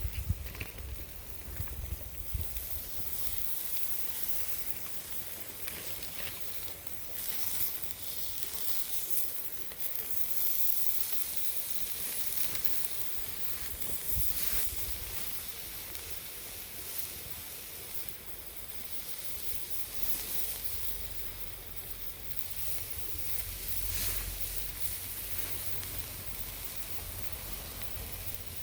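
Steady hissing from cooking over a small wood fire, with occasional short crackles.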